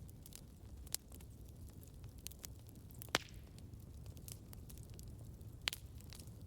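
Wood campfire crackling: scattered sharp pops and small ticks from the burning wood over a low, steady rumble of the flames. The loudest pop comes about three seconds in, with clearer ones near the first second and near the end.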